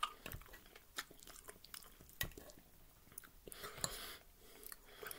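Faint chewing of tender, sauce-covered pork rib meat, with a few light clicks of a metal fork against the plate.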